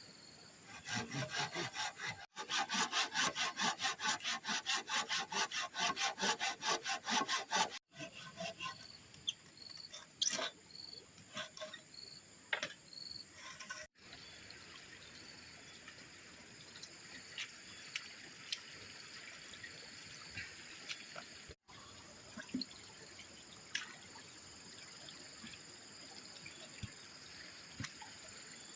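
Hand saw cutting wood in quick, even strokes, about four a second, for the first several seconds. A few scattered knocks follow, then a steady trickle of running water for the rest.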